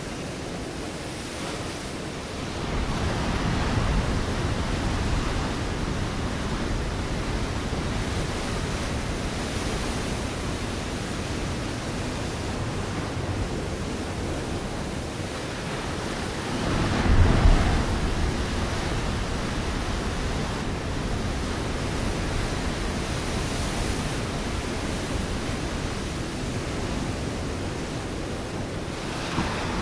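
Ocean waves breaking on a rocky shore: a continuous hiss of surf, with a wave crashing in about 3 seconds in and a louder one at about 17 seconds.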